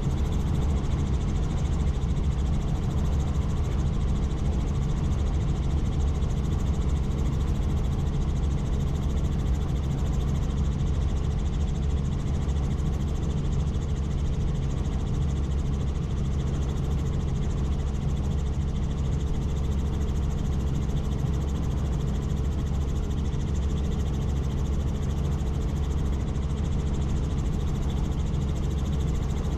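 Helicopter in flight: a steady low drone of rotor and engine, holding an even level throughout.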